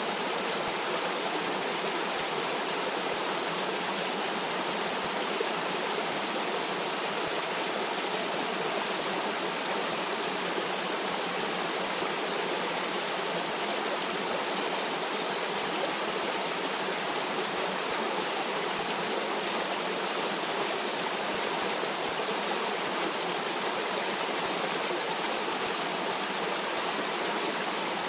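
Stream water running over rocks: a steady, even rush with no breaks or changes.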